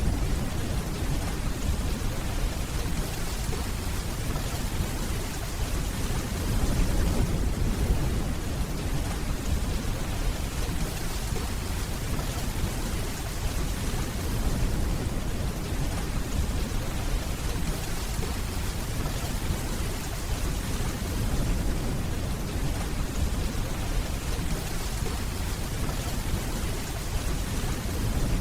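Steady rainfall with a low rumble of distant thunder underneath, swelling briefly about seven seconds in.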